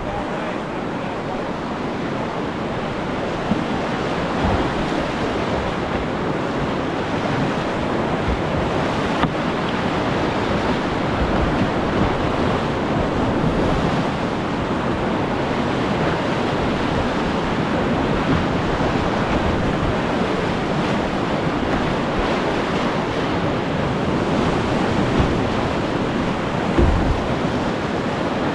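River whitewater rushing steadily as a kayak runs rapids, with wind buffeting the microphone and a brief low thump near the end.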